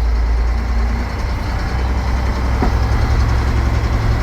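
Old Mack roll-off truck's diesel engine running, still cold, as it is put into gear to pull away; the engine note steps up slightly a couple of seconds in.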